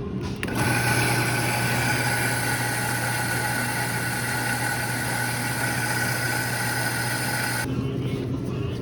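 Steady engine hum with a constant higher whine over it. It starts suddenly about half a second in and cuts off suddenly near the end.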